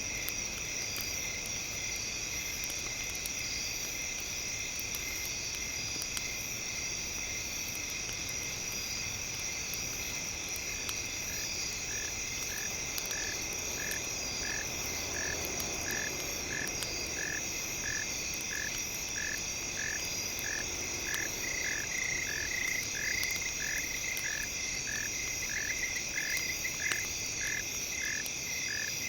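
Night-time nature ambience: a steady, high-pitched insect chorus, joined about a third of the way in by a frog calling a short note over and over, a little under twice a second, which grows louder in the second half.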